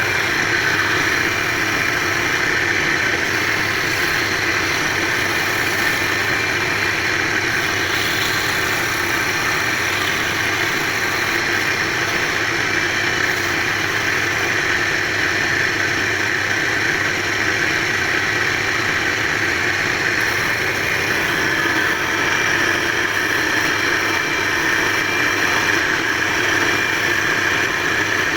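Wood lathe running steadily, an even mechanical hum and hiss with no break.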